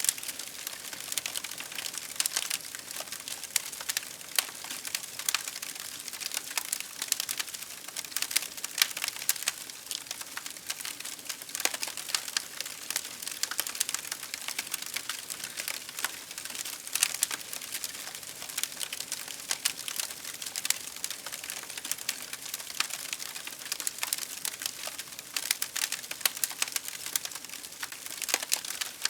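Fire crackling steadily: a dense run of small, irregular pops and snaps, with a few sharper pops standing out now and then.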